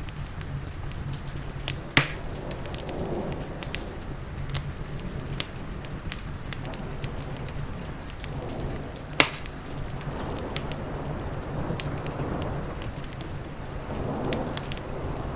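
Wood fire crackling with scattered sharp pops, the two loudest snaps coming about two seconds and about nine seconds in, over steady rain.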